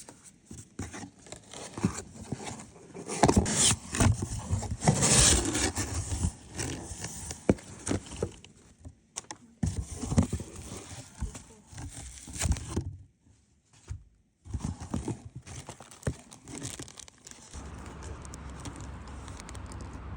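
Irregular rustling and scraping with many light clicks and knocks, as of things being handled. It is loudest a few seconds in and breaks off briefly about two-thirds through.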